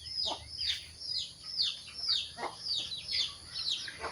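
Chicks peeping in a steady run of high, falling cheeps, about three a second. A lower call, from the hen, cuts in twice.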